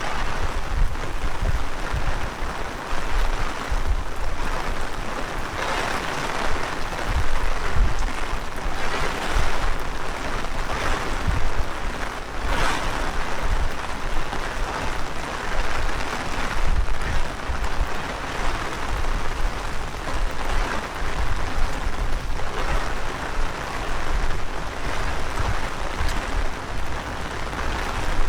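Heavy rain falling steadily, with gusty wind buffeting the microphone in uneven low rumbles.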